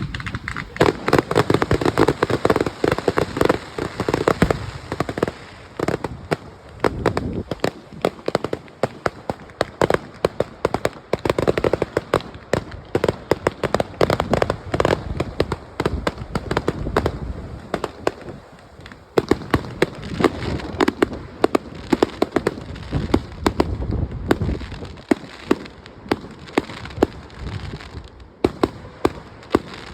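Fireworks display: a dense, continuous volley of sharp pops and crackling reports, many per second, with a short lull a little past the middle.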